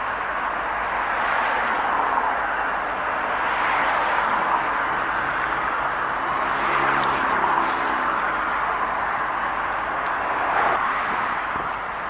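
Steady road traffic noise. About halfway through, a vehicle's engine hum swells and passes.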